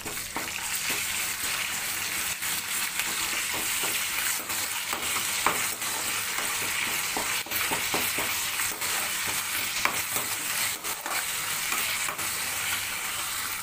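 Ginger-garlic paste, coriander and curry leaves frying in hot oil in a kadai: a steady sizzle. A metal ladle stirring the pan makes repeated scraping and clicking against it.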